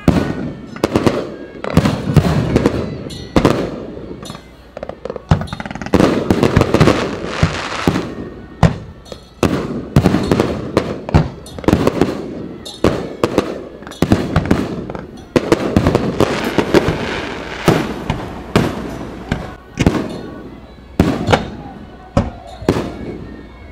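Aerial fireworks going off in quick succession: a steady run of sharp bangs from shell bursts, often several close together.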